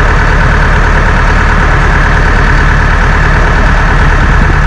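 Farm tractor's diesel engine idling steadily at close range.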